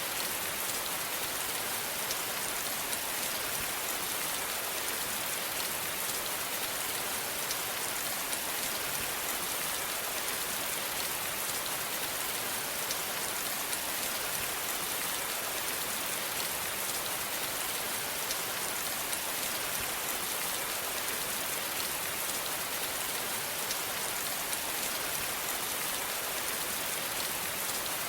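Steady rain falling, an even hiss of many raindrops without let-up.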